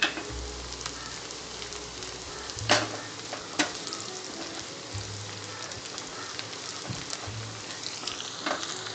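Chopped shallots, garlic and green chilli sizzling and crackling in coconut oil in a small pan, frying for the tempering and stirred with a wooden spatula. Two sharp knocks come about three seconds in.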